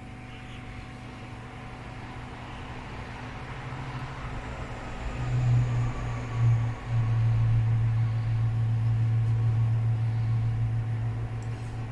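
A small electric motor or blower humming with a light hiss, growing louder through the first half, swelling twice about five and six seconds in, then running steadily.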